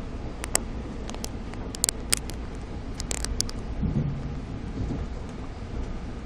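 NJ Transit commuter train running at speed, heard from inside the passenger car as a steady rumble and hiss. A scatter of sharp clicks comes in the first three and a half seconds, followed by a low thud about four seconds in.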